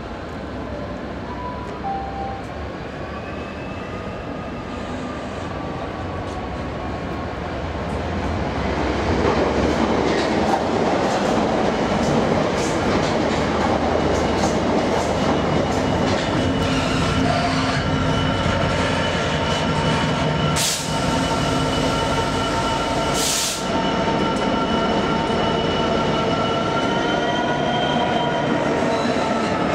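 Class 66 diesel locomotive's two-stroke V12 engine growing louder as it approaches slowly and passes close, hauling loaded hopper wagons. From about halfway in, steady high-pitched wheel squeal runs under the engine, and there are two sharp cracks a few seconds apart.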